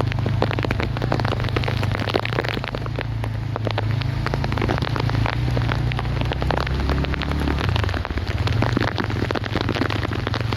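Heavy rain falling, a dense patter of drops striking close surfaces, over a steady low rumble that changes pitch about three-quarters of the way in.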